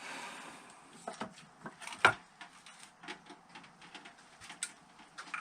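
Scattered light clicks and knocks of metal engine parts and tools being handled during engine disassembly, with one sharper knock about two seconds in and a short hiss at the start.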